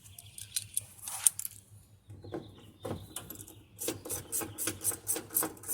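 Tools working the 13 mm transmission bolts under a top-load washing machine, with metal clicks and knocks, then a fast, even run of clicks from about four seconds in as the bolts are loosened.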